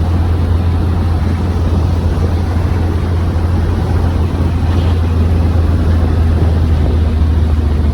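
Morgan Plus 4's four-cylinder engine droning steadily at cruising speed, with road and wind noise from the open car.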